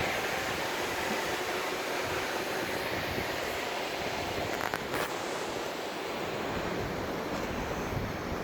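Steady outdoor rushing noise, with a few faint clicks about five seconds in.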